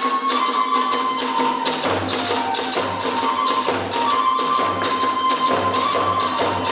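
Kagura hayashi music: a bamboo flute holds long notes that step up and down in pitch over rapid, steady strokes of hand cymbals and drums.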